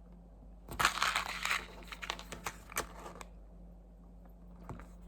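Crinkling and crunching handling noise: a dense rustling burst about a second in, then scattered sharp clicks and crackles.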